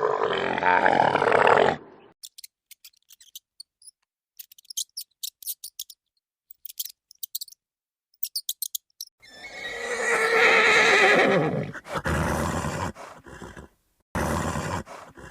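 Recorded animal calls: a loud call at the start, then sparse short high ticks, then a long neigh-like call about nine seconds in, followed by a few shorter calls.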